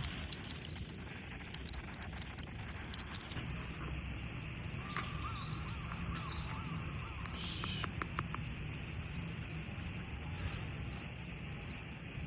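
Autumn crickets chirping in a steady high-pitched chorus, with a low background hum and a few faint clicks.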